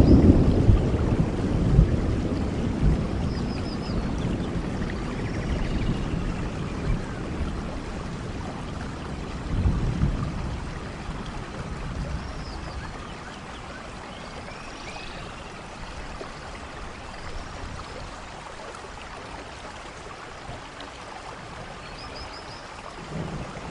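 Steady rain with thunder: a rumble dying away over the first few seconds, a short rumble about ten seconds in, and another starting at the end, with quieter rain between. A few faint high chirps sound over the rain.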